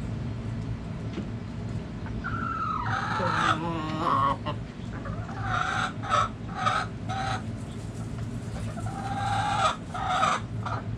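Backyard chickens calling: a long drawn-out call that wavers at its end about two seconds in, then a run of short clucking calls, and another drawn-out call with short notes near the end. A steady low hum runs underneath.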